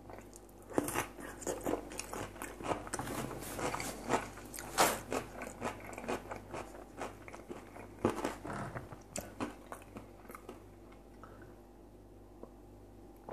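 Close-up mouth sounds of eating: crisp crunching and wet chewing of fried potatoes and a lightly salted pickled cucumber, in a run of bites and chews that grows quieter near the end.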